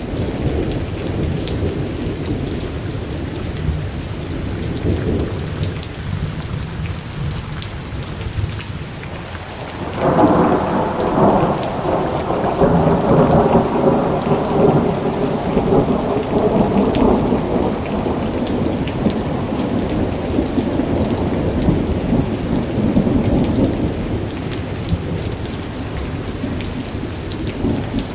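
Steady rain falling during a thunderstorm, with thunder rumbling low at first, then about ten seconds in a sudden crackling thunderclap that rolls on for several seconds and slowly fades.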